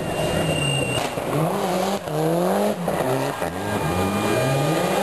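Rally car engine revving hard through a corner, its revs climbing and dropping several times in quick succession.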